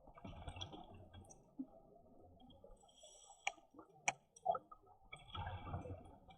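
A scuba diver breathing underwater through a regulator, in hissing, bubbling breaths. Three sharp clicks come in the middle.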